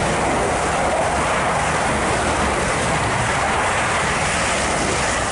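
Electric multiple-unit passenger train running through a station at speed without stopping: a steady, loud rush of wheels on rail and displaced air as the carriages pass close by.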